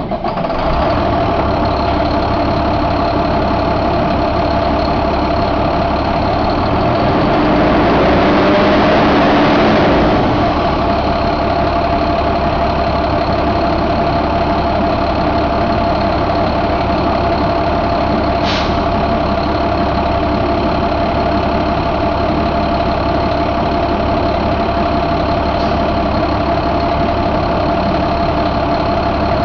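2012 International MaxxForce DT inline-six diesel engine idling steadily just after starting. About seven seconds in it briefly rises in speed and gets louder, then drops back to idle about ten seconds in; a short high chirp is heard a little past halfway.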